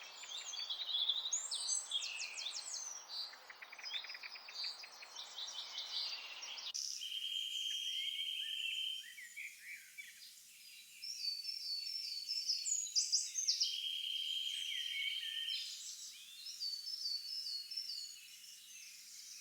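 Several songbirds chirping and trilling over one another, with short repeated rapid note series. A soft hiss under the birdsong stops abruptly about seven seconds in.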